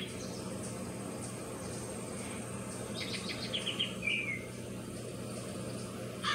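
Bird chirping: a quick run of short high notes about three seconds in, ending in a brief falling note, over a steady low hum.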